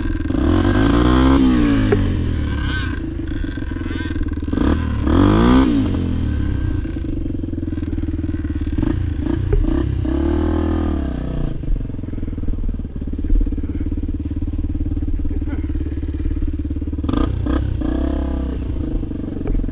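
Motorcycle engine running steadily, with its pitch rising and falling several times as it revs up and eases off.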